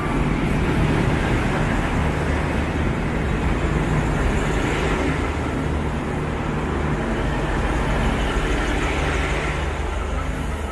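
V/Line VLocity diesel multiple unit running along the platform and past at close range: a steady low drone from its diesel engines over the rumble of the wheels on the track.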